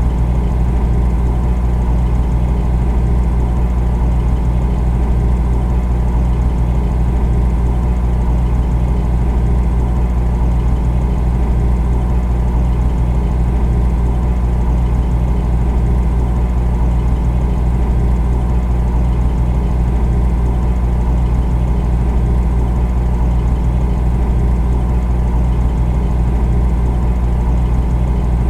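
Refrigerator running with a steady, deep hum that does not change.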